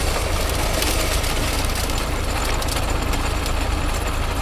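Old farm engine running steadily, with a deep low rumble.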